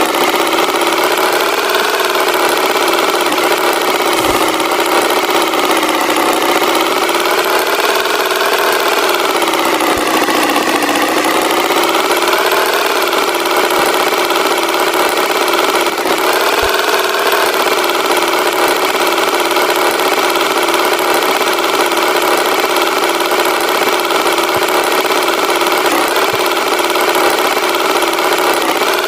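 Tractor engine sound effect running steadily, its drone wavering slowly up and down in pitch.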